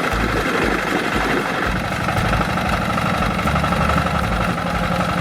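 A small motor running steadily, with a pulsing low rumble underneath.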